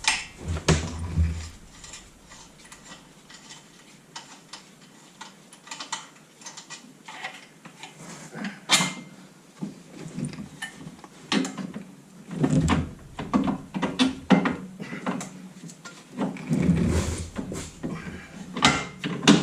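Irregular clicks, knocks and clunks of hand tools and metal car parts being handled during steering and suspension work, with a few heavier clunks in the second half.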